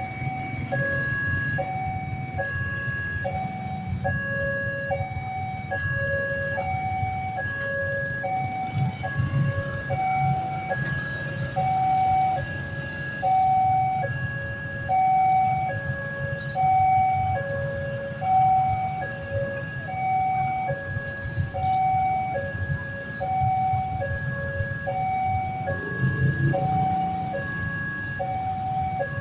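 Railway level-crossing warning alarm sounding its electronic two-tone signal, the two pitches alternating in a steady repeating pattern, over the low rumble of slow-moving traffic.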